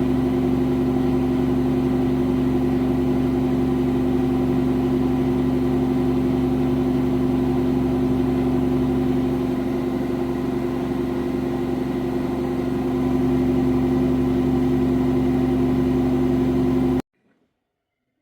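V-ZUG Adora washing machine running with a steady machine hum made of several fixed tones, which cuts off suddenly near the end.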